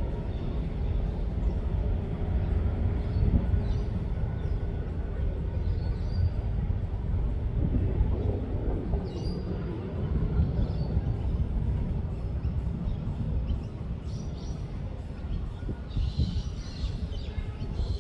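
Steady low rumble throughout, with a few faint, short high-pitched calls, most of them near the end.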